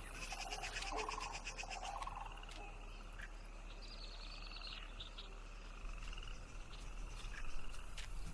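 Sandhill cranes calling faintly in short rattling bursts about one to two seconds in, then a faint, repeated high trilling from the marsh.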